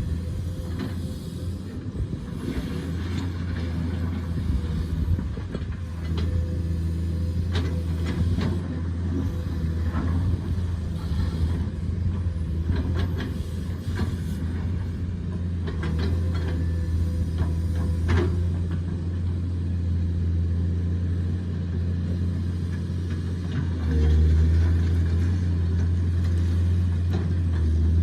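Excavator's diesel engine running steadily, with scattered sharp knocks and clanks. It gets louder about four seconds before the end.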